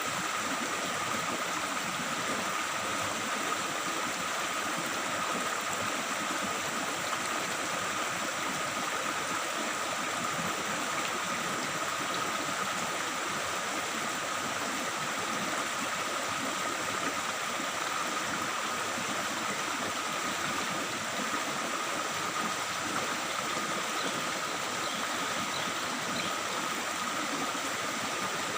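Stream water babbling and flowing steadily, a continuous even rush with a thin steady high tone running under it.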